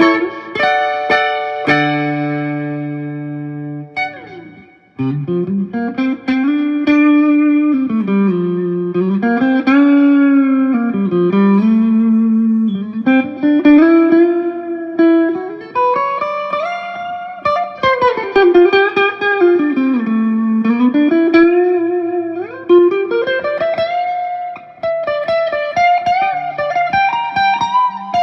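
Electric guitar, a 1967 Gibson SG with three P90 pickups played through a Marshall JCM 2000 amp. A few ringing chords are followed, about five seconds in, by a sustained single-note lead line with string bends and vibrato.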